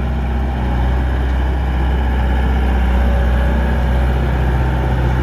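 Gehl 5635 SX skid steer's engine running steadily at idle, a low, even engine tone with no change in speed.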